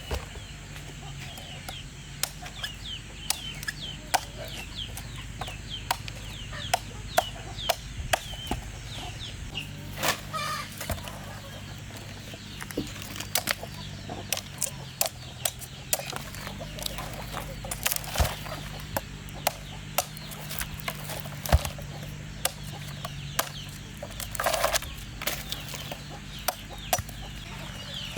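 Chickens clucking, with many short, high, falling chirps and two louder bursts of calling about ten seconds in and near the end. Frequent sharp clicks and knocks run among the calls.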